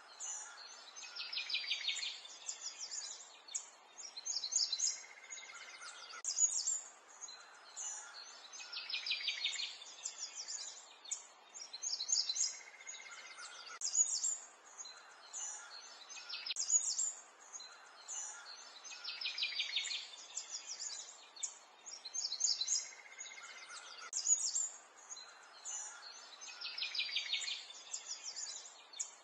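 Birds chirping and trilling, with short high calls and rapid trills that recur in a similar pattern every several seconds.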